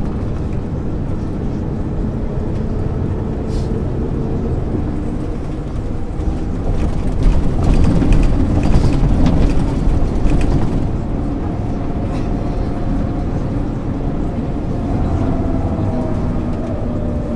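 Diesel engine of a 1999 MAN ÜL 353 intercity bus running while the bus drives, heard from inside the bus with a steady engine hum over road rumble. For a few seconds in the middle the rumble gets louder, with clattering rattles, and near the end the engine note climbs as it pulls.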